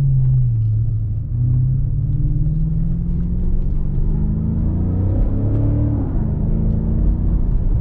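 BMW M5 Competition's twin-turbo V8 running while driving at low speed, with a low rumble. Its note falls at first, rises from about four seconds in, and drops back near six seconds.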